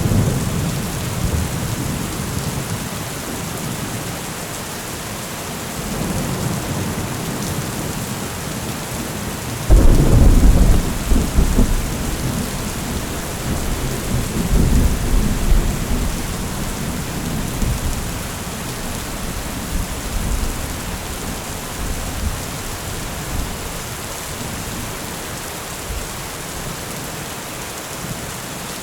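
Thunderstorm: steady heavy rain with rolling thunder. A rumble dies away at the start, a sudden loud thunderclap about ten seconds in rumbles on for several seconds, and fainter rumbles follow.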